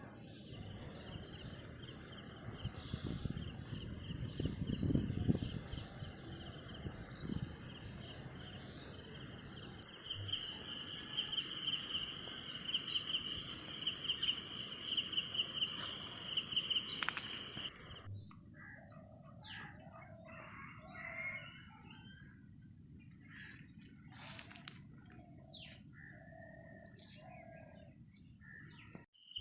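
A steady, pulsing chorus of insects, with birds calling and chirping. About two-thirds of the way through, the insect drone cuts off suddenly, leaving separate bird calls.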